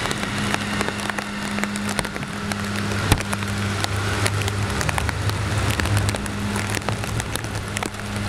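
A road crew's heavy vehicle engine running with a steady low hum, swelling a little midway, under steady heavy rain with many sharp drop hits.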